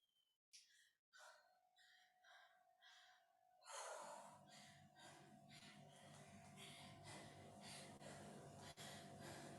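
Faint, heavy rhythmic breathing of a woman exerting herself through weighted squats: short puffs at first, getting louder and steadier about four seconds in, with a faint steady hum underneath.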